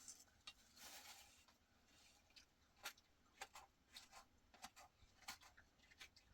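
Near silence with faint, scattered clicks and a brief light rustle in the first second.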